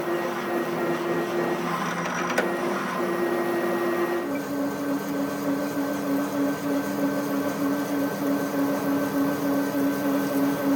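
A motor-driven workshop machine running with a steady hum; about four seconds in its pitch drops suddenly and then holds steady.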